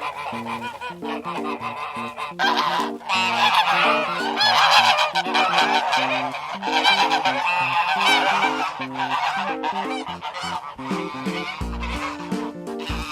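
A flock of birds calling, many overlapping honking calls that swell loud a couple of seconds in and thin out near the end, over background music with a simple stepping melody.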